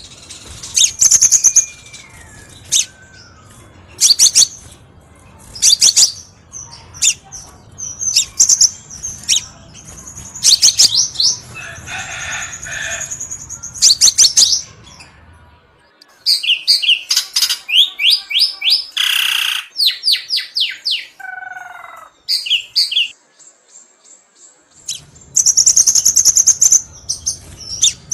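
Crimson sunbird calling: bursts of high, sharp chirps and fast trills repeated every second or two. The low background hiss drops out for a stretch in the middle.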